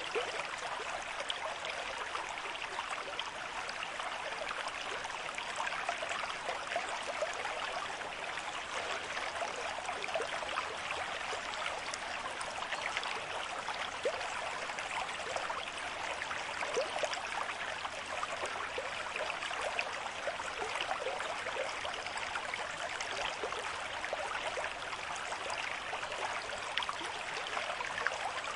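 A river stream at moderate flow running over rocks: a steady rush of water with many small splashes and gurgles.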